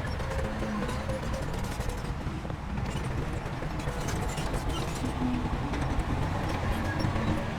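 Heavy diesel earthmoving machinery running steadily, with scattered faint clanks.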